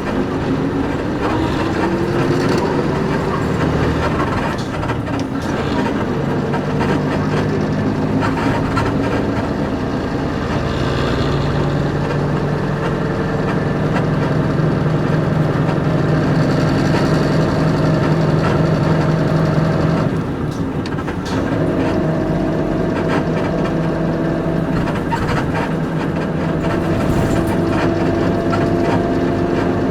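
Interior running sound of a Nissan Diesel KC-UA460LSN bus with its PG6 diesel engine and five-speed overdrive manual gearbox: the engine note climbs as the bus accelerates over the first few seconds, then holds steady while cruising. About two-thirds through, the engine sound briefly drops off and picks up again at a new pitch, like a gear change.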